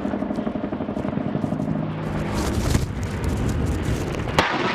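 Military helicopter's rotor and turbine engines running steadily with a fast rotor pulse, broken by two sharp loud bursts, the stronger one near the end.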